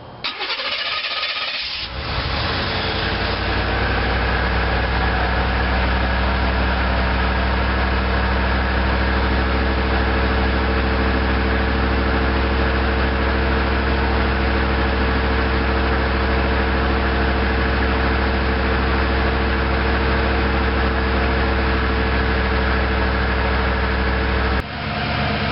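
1989 Chevrolet Caprice Classic's fuel-injected 5.0 L (305) V8 idling steadily on a cold morning, running smoothly; the sound changes briefly in the first two seconds before the steady idle settles.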